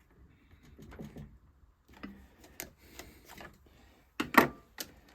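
Hand-working clicks and small knocks as new rubber fuel pipes are pushed onto their fittings on a two-stroke hedge trimmer, irregular, with the loudest cluster of sharp clicks about four seconds in.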